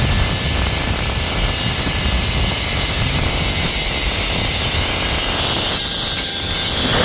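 Loud, steady wind rushing and buffeting over the microphone, with a constant hiss above a fluctuating low rumble.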